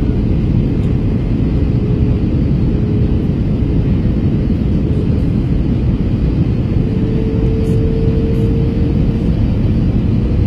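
Airbus A321 cabin noise in flight: a steady, dense low rumble of jet engines and airflow, with a faint steady hum that rises slightly in pitch about seven seconds in.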